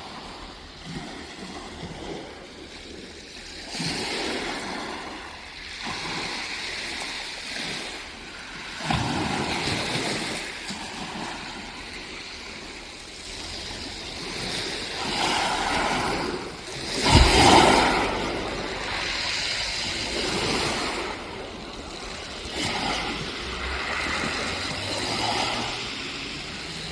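Waves washing onto the beach, the sound of surf swelling and falling back every few seconds, with one louder surge about two-thirds of the way through.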